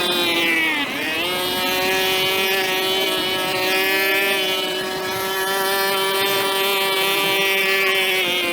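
Small two-stroke engine of a brush cutter running at high speed. Its pitch dips briefly about a second in, then holds steady.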